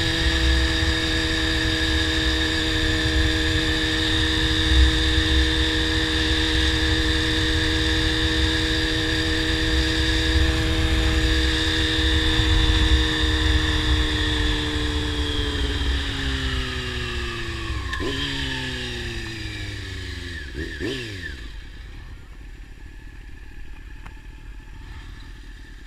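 Honda CBR600 inline-four through a slip-on exhaust, cruising at steady revs with wind rumble. About two-thirds of the way through the rider rolls off: the engine note falls, with a couple of downshift blips, and it settles much quieter near idle as the bike slows.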